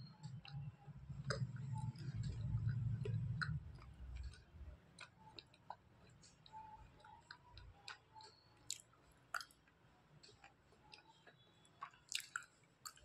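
Slate pencils being chewed in the mouth: heavy, low, muffled chewing for about the first four seconds, then scattered small crisp crunches and clicks.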